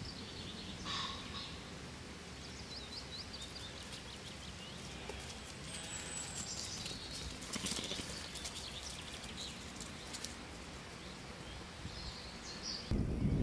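Quiet rural outdoor ambience with small birds singing: scattered short high chirps and quick trills, and a thin falling whistle about six seconds in.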